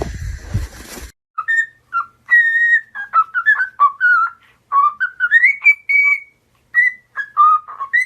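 A noisy burst that cuts off about a second in, then a whistled tune: a run of short clear notes, some held and some gliding up or down, with brief silences between.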